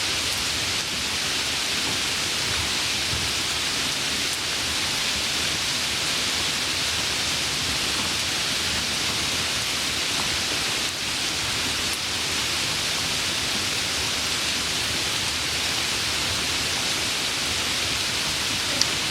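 Steady hiss of falling water, such as rain or a waterfall, with one sharp click near the end.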